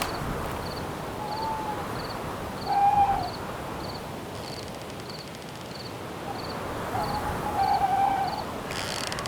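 Owl hooting over a steady wind hiss: a short call, a louder one about three seconds in, and a longer wavering call near the end. A cricket chirps about every two-thirds of a second, and a denser insect trill starts near the end.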